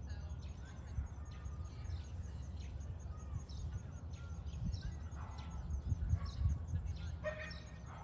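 Songbirds chirping and calling in short, scattered notes, over a low uneven rumble that swells about five to seven seconds in.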